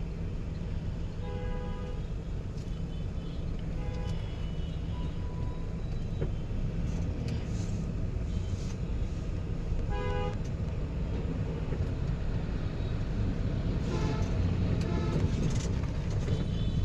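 Steady engine and road rumble of a Toyota Noah minivan being driven, with several short horn toots from traffic. The loudest toot comes about ten seconds in.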